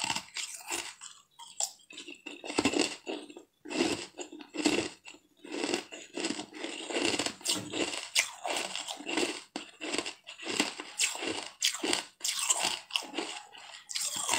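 Close-up mouth sounds of a person biting and chewing a small blue cup-shaped sweet: a run of irregular crunches and wet chewing with short pauses between them.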